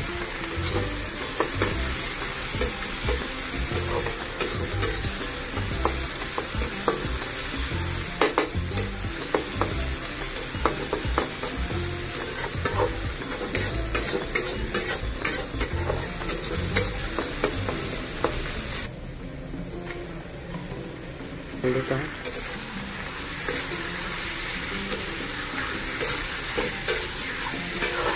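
Food frying in hot oil in a metal kadai on a gas stove, first onions and then chicken and potatoes, steadily sizzling while a spatula stirs it, scraping and clicking against the pan. The sizzle dies down for a few seconds about two-thirds of the way through.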